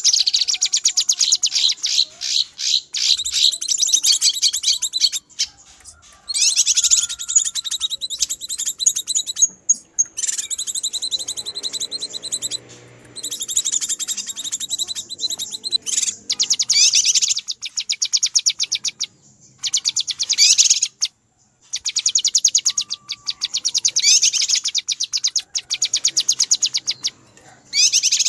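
Cucak kinoi calling in agitated, noisy bursts: rapid high-pitched chattering lasting several seconds at a time, broken by short pauses. This is a bird-lure recording used to draw in wild kinoi.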